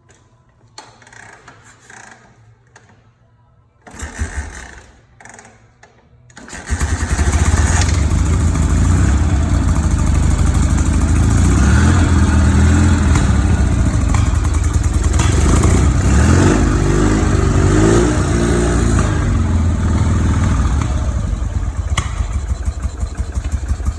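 1968 BMW R69S's 600 cc flat-twin engine on a cold start: two short attempts at about four and five seconds, then it catches about six and a half seconds in and runs steadily. Its speed rises and falls a few times in the middle before settling.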